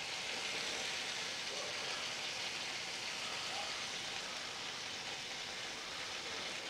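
Rotisserie chicken sizzling over a lit gas grill burner: a steady hiss of fat spitting and burner flame.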